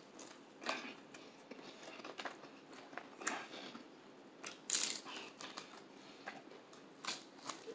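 Close-up chewing of crispy fried chicken: irregular crunches and wet mouth clicks, the loudest crunch about five seconds in.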